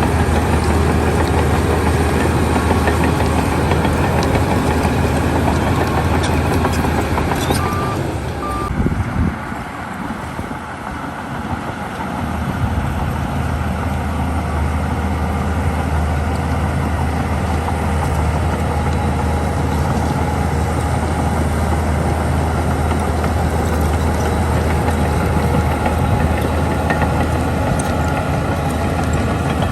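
Heavy diesel earthmoving machinery running steadily with a deep engine hum that eases off for a few seconds about nine seconds in, then picks up again. Two short high beeps sound just before the dip.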